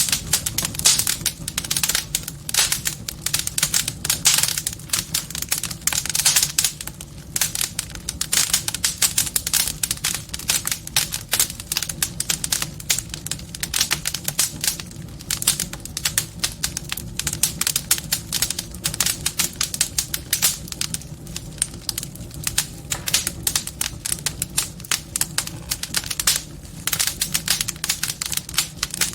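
Wood fire in a fireplace crackling, with many quick irregular pops and snaps over a steady low rumble of the flames.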